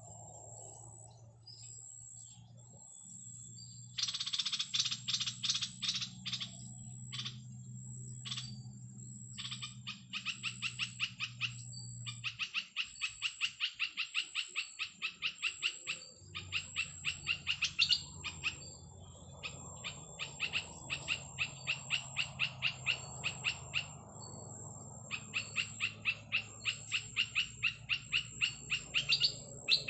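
Petpet bird calls: long trains of rapid, evenly repeated high chirps, about five a second, starting about four seconds in and stopping and restarting several times. A steady low hum runs underneath.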